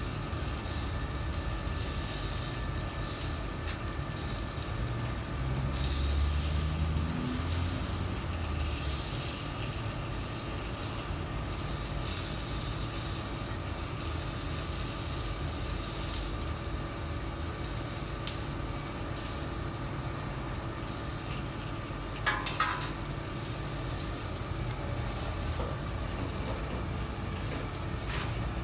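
Steady sizzle of food frying in hot oil, with a low rumble that rises in pitch about six to eight seconds in and a brief metallic clatter about 22 seconds in.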